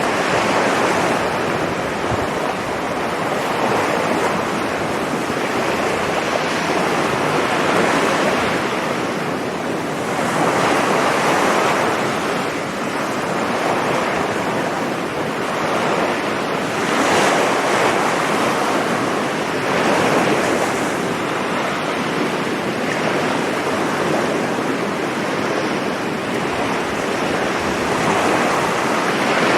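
Sea surf breaking and washing on the beach, in steady swells every few seconds, with some wind on the microphone.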